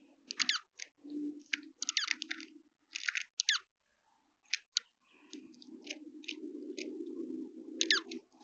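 Juncos feeding at a bird feeder: a run of sharp clicks and quick downward chips, with a steady low rumble setting in about halfway through.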